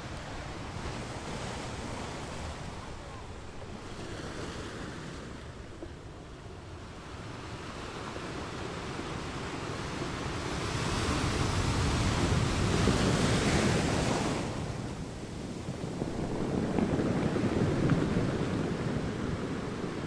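Sea waves washing in, a steady rushing hiss that swells into two louder surges in the second half.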